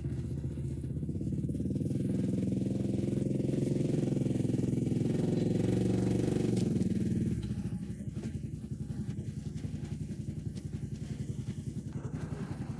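Small engine running under throttle, then throttled back about seven seconds in to a slower, quieter, evenly pulsing idle.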